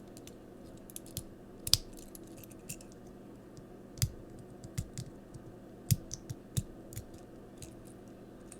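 Small hard plastic toy parts clicking and tapping as they are handled and fitted together: irregular sharp clicks, the loudest about two seconds in.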